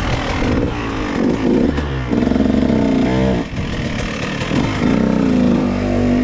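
KTM dirt bike engine running and revving, its pitch rising and falling several times.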